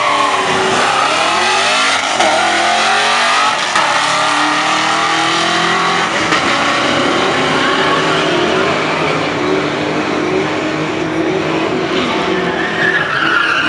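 Drag-racing Fox-body Ford Mustang launching at full throttle and accelerating down the strip. Its engine note climbs and drops back at gear changes, then runs on steadily.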